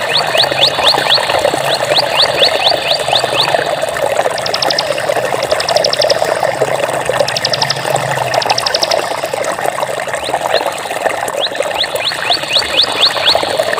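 Flowing water running steadily, with birds calling over it: a run of quick rising chirps, about three or four a second, at the start and again near the end, and four short, fast trills in the middle.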